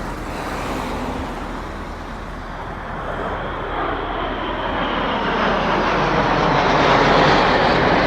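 Red Arrows' BAE Hawk jets flying over in formation: a jet roar that grows steadily louder through the second half, over road traffic.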